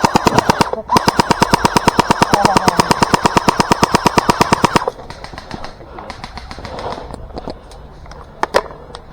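Airsoft gun firing on full auto, close by: a short burst of about a second, then a longer burst of about four seconds at a fast, even rate.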